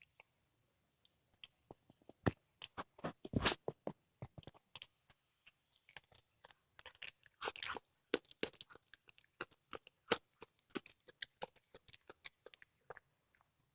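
A cat chewing and crunching through a squirrel carcass: irregular sharp crunches and cracks of bone and flesh, coming in clusters.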